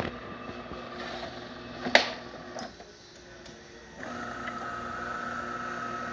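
DeLonghi Gran Dama espresso machine running mechanically: a steady hum, a sharp click about two seconds in, then from about four seconds in a steady motor whine that cuts off at the end.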